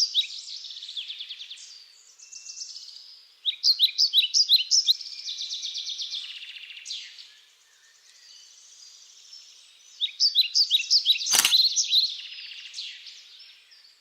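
Forest birds calling: quick runs of high chirps in bursts, with finer trills between them. A single sharp click cuts through about eleven seconds in.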